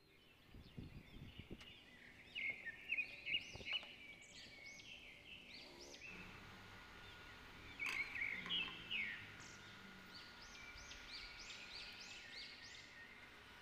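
Birds chirping faintly in the background, in several clusters of short rising-and-falling calls, with a few faint knocks.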